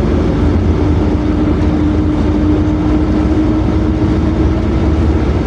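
Steady engine and road rumble heard from inside a PAZ-422320-04 Citymax 9 city bus under way, with a steady whine held throughout.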